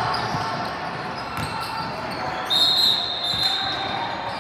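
Basketball bouncing on a hardwood gym floor in repeated dull thumps, with a held high squeal starting a little over halfway in and lasting nearly two seconds.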